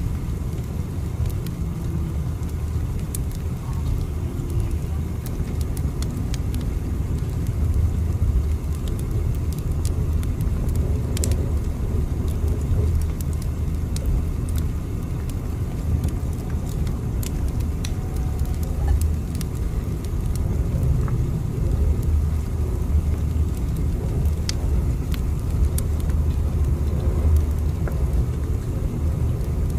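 Steady low rumble of a moving train, with faint scattered ticks above it.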